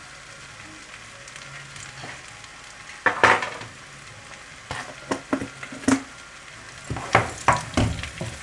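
Eggs sizzling in butter in a frying pan, with a cooking utensil scraping and tapping against the pan in a run of sharp strokes from about three seconds in as the eggs are scrambled.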